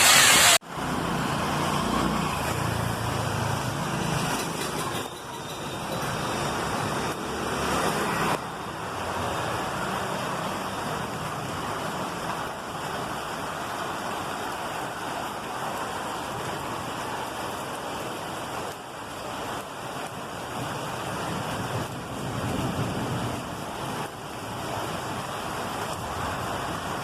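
Storm noise from wind and rain: a steady rushing hiss with uneven low rumbling gusts.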